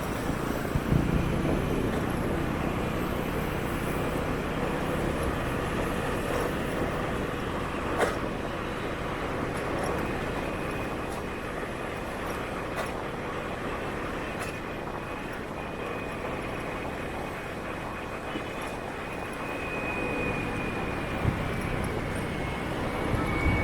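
City street traffic heard from a moving motorbike: a steady mix of engine and road noise from the ride and the motorbikes around it. There is a sharp click about a third of the way in, and a faint high whine sets in past the middle, dipping slightly near the end.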